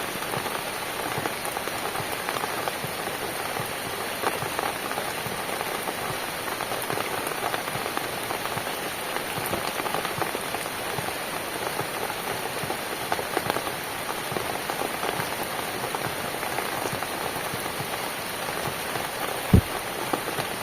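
Steady rain falling, with individual drops ticking throughout and a single low thump near the end.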